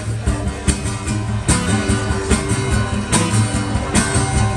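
Instrumental break in a rock song: strummed guitar over the band, with sharp hits recurring through the passage.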